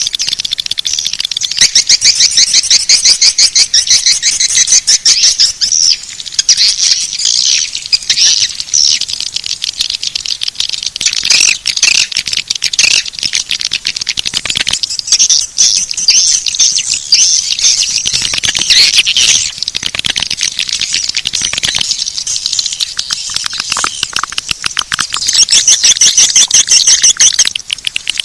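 Swiftlet call lure track: dense, rapid trains of high chittering swiftlet chirps, repeating without pause and swelling louder twice. It is a playback meant to draw swiftlets into a nesting house.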